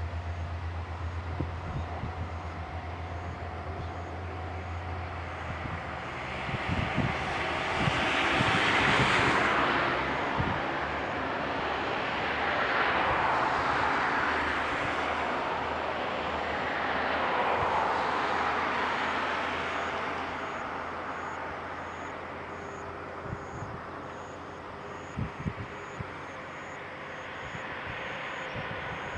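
Kanto Railway 2100-series diesel railcar set departing: a steady low engine hum, then about six seconds in the diesel engines run up and the sound swells three times as the train pulls away, before fading as it moves off, with a few knocks near the end.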